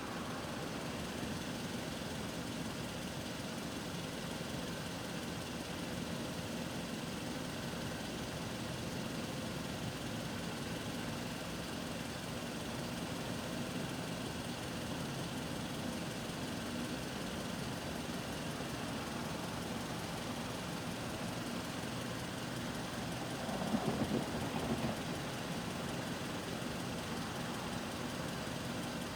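Steady low rumble of an idling engine, with a brief louder sound about twenty-four seconds in.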